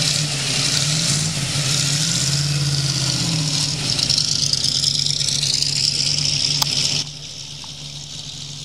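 1959 Chevrolet Corvette's V8 running as the car pulls away and drives off at low speed. The sound drops sharply in level about seven seconds in.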